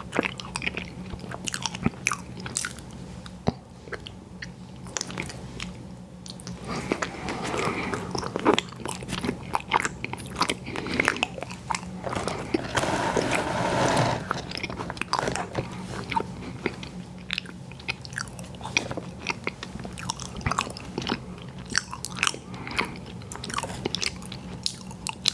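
Close-miked eating sounds from ice cream sandwiches being bitten and chewed: many small sharp mouth clicks throughout, with a denser stretch of chewing about halfway through. A faint steady low hum lies underneath.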